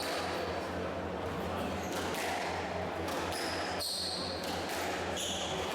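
A squash rally: the ball is struck and hits the walls with sharp knocks every second or two, and court shoes squeak on the wooden floor between the shots. A steady low hum runs underneath.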